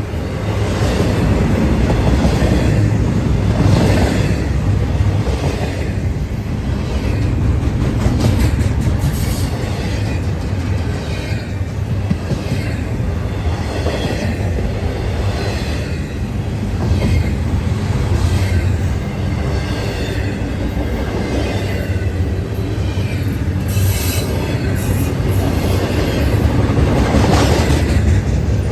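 Intermodal freight train rolling past at speed: a steady rumble of car wheels on the rails, with repeated clicks as the wheels cross rail joints.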